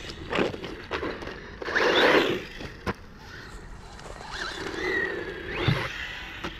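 Small brushless RC truck driving over rough ground: a loud burst of tyre scrabble about two seconds in, a sharp click just after, then the electric motor whining up and down with more rolling noise near the end.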